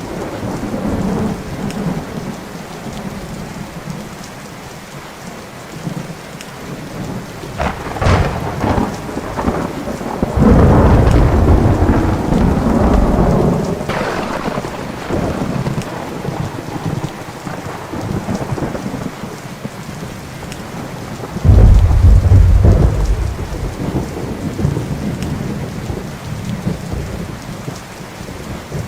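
Thunderstorm with steady rain: a sharp thunder crack about eight seconds in leads into a long rolling rumble, and a second sudden loud clap of thunder rumbles on about two-thirds of the way through.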